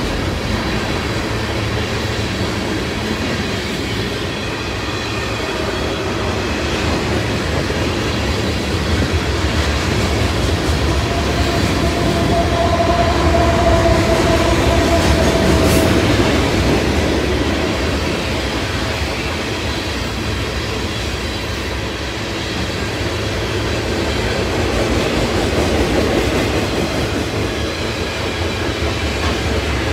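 Freight train cars rolling steadily past on the rails: a long string of tank cars, open hoppers and covered hoppers. A thin squealing tone rises out of the rumble for a few seconds about halfway through.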